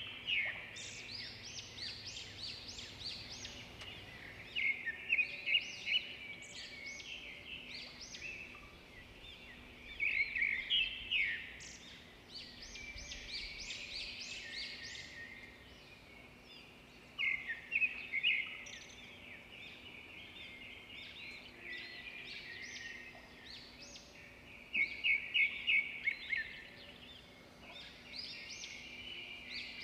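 Birds chirping: bursts of quick, high chirps come every few seconds.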